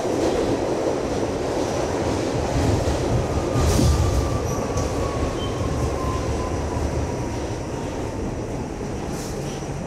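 R68 subway car running along the track: a steady rumble of wheels on rail with a faint tone slowly falling in pitch, and two sharp clanks, about four seconds in and again near the end.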